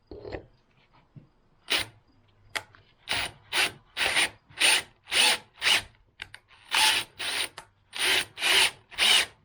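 Power drill with a thread tap in its chuck, run in short trigger bursts: a few single blips, then about two bursts a second from about three seconds in.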